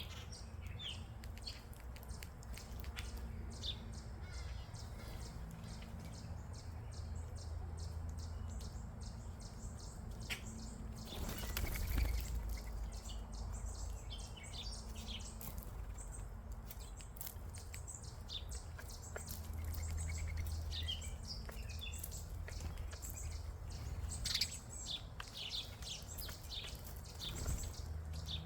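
Several small wild songbirds chirping and calling in short, frequent notes over a steady low rumble of background noise. A brief rushing noise passes about eleven seconds in.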